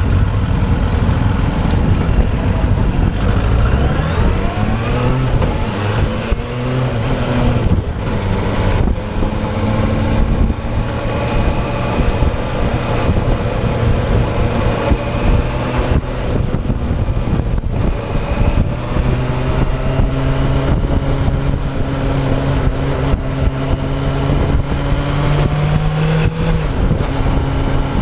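Motorcycle engine under way, with heavy wind rumble on the tank-mounted camera's microphone. The revs climb in the first few seconds, then hold steady at cruise, and rise once more before dropping near the end.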